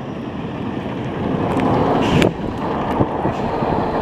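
Strong wind buffeting the microphone in a steady rumbling rush, with vehicle noise from passing road traffic mixed in.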